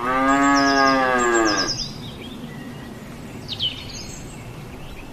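Buffalo lowing: one long moo of under two seconds, with small birds chirping faintly in the background.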